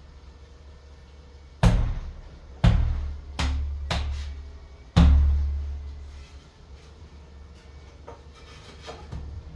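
Five heavy knocks in about three and a half seconds, irregularly spaced, each with a booming tail that dies away, the last the loudest, from tile repair work.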